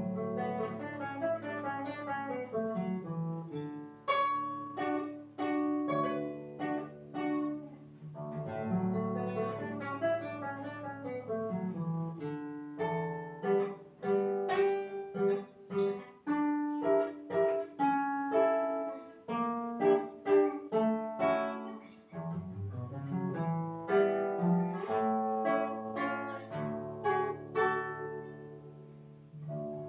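Solo acoustic guitar playing a classical-style piece, with plucked melody notes and chords ringing over bass notes.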